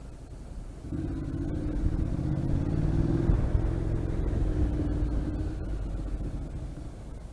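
Motorcycle engine pulling hard as the throttle opens about a second in, running strongly for a few seconds, then easing off near the end.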